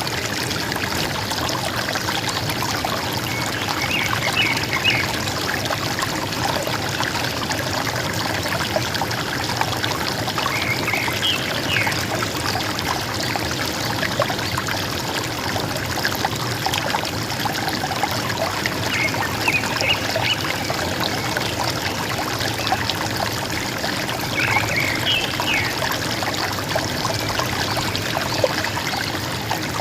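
River water gurgling and trickling steadily, with short chirping bird calls coming in four times.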